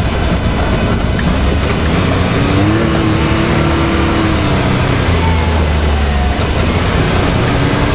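Can-Am Maverick X3 side-by-side's turbocharged three-cylinder engine running under way, its revs rising for a couple of seconds and falling back, with background music over it.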